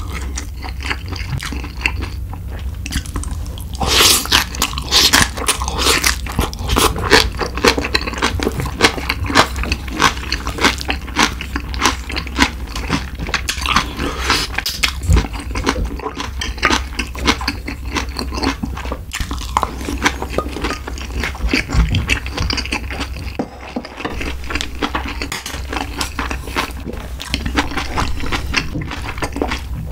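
Close-miked chewing and crunching of a mouthful of rice with spicy pork and mustard-leaf kimchi: a dense run of wet smacks and crunches, louder from about four seconds in. A steady low hum sits underneath.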